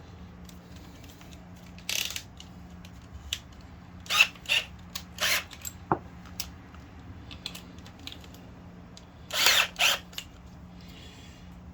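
Parts of a septic aerator pump being handled and fitted back together as its tray goes back on: a series of short scraping and clacking sounds, with one sharp click about six seconds in and a quick pair of scrapes near the end.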